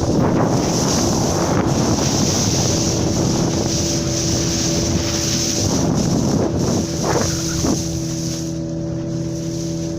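A boat's engine running with a steady hum, under a loud rush of wind and sea water that swells at the start and dies down about eight seconds in.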